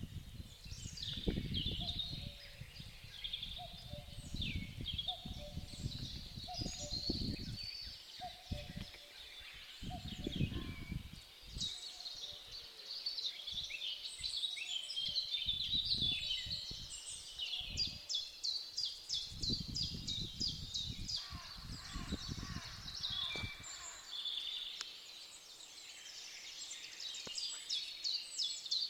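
Several birds calling and singing at once, with busy chirps and fast trills; the trills are densest about two-thirds of the way in and again near the end. Irregular low rumbles come and go beneath the calls.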